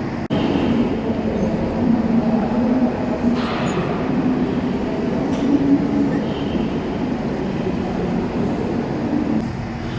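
Steady mechanical rumble and hum of an escalator running, heard while riding it up a floor, with a brief hiss about three and a half seconds in.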